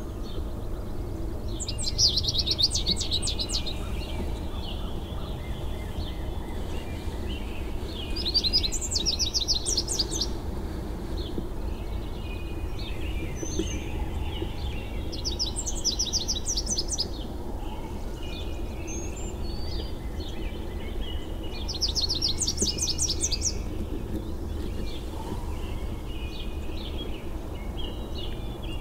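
A songbird singing a short song of rapid repeated high notes about every six seconds, with a few single chirps between, over a steady low rumble.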